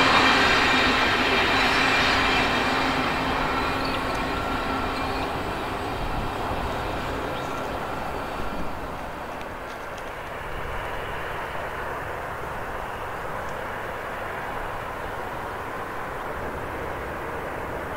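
Freight train rumble fading steadily over about ten seconds as the train moves away, then settling to a low, steady distant rumble.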